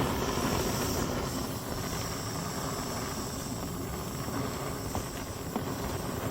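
Handheld gas torch running steadily, its flame hissing as it is held on solid fuel and firewood to get them burning, with a couple of faint ticks about five seconds in.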